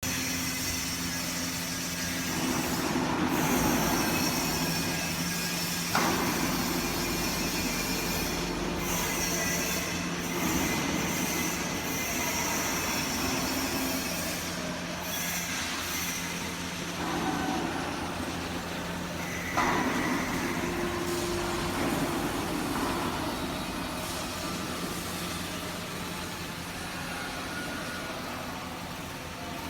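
Feed-mill machinery running: a steady mechanical hum and rumble with hiss over it, changing suddenly about six seconds in and again near twenty seconds.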